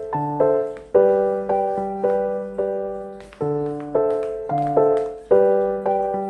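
Background piano music: a gentle, repeating melody of chords struck about twice a second, each fading before the next.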